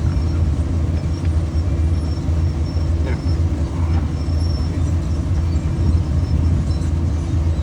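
Steady low engine rumble from nearby machinery running at a constant idle, with a few faint metallic ticks of hand tools.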